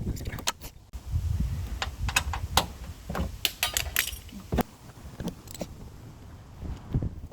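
Socket wrench on an extension loosening a screw behind a truck's washer fluid reservoir: irregular metallic clicks and clinks over low bumping and rubbing of hands and tool against the panel.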